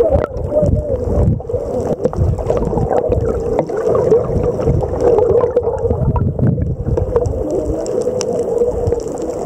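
Boat and water noise, a low rumble with a steady hum and scattered small clicks, muffled as if heard in or right at the water.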